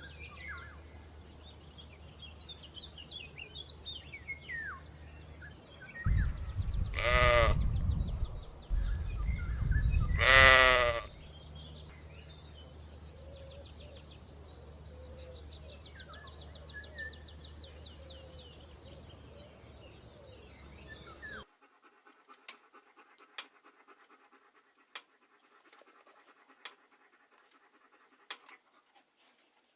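Two loud, wavering bleats from a goat or sheep, one about six seconds in and another about four seconds later, over a steady background with faint high chirps. About two-thirds of the way through the sound cuts to near quiet with a few scattered clicks.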